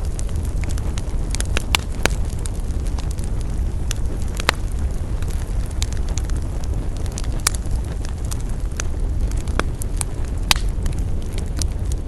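Wood campfire crackling: scattered sharp pops and snaps at irregular intervals, the loudest about four and a half and ten and a half seconds in, over a steady low rumble.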